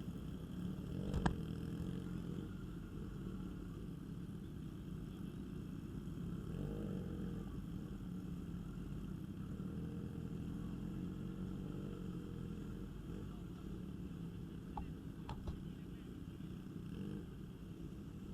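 Motorcycle engine running at low revs, a steady low rumble that rises and eases off twice, with a sharp click about a second in.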